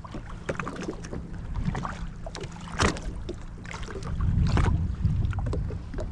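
Sea-Doo jet ski engine idling with a steady low hum, with scattered knocks and clicks of handling on the craft and a gust of wind on the microphone about four seconds in.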